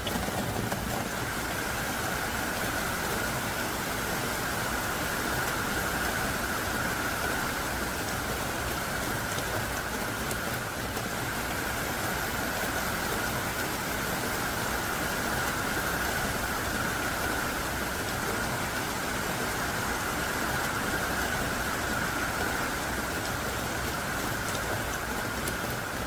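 Heavy, pelting rain falling steadily, a dense even hiss of downpour.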